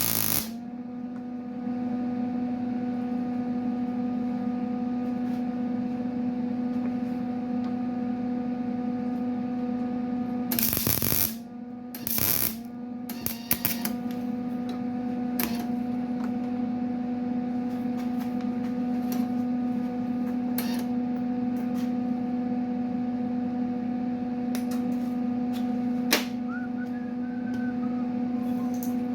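A steady electrical hum runs throughout, with a few short crackling bursts about eleven and twelve seconds in and scattered clicks: tack welds being laid on sheet metal.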